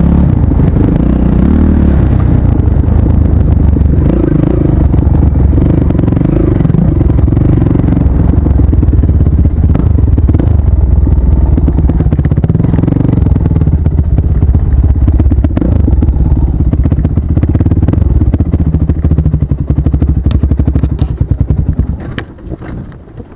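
Off-road motorcycle engine running and revving close by, loud and continuous, dropping away sharply near the end.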